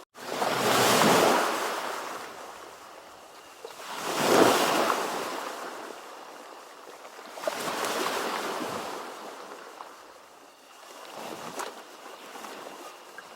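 Ocean waves breaking in four surges of rushing water, roughly every three to four seconds, the loudest about four seconds in. A split-second dropout comes right at the start.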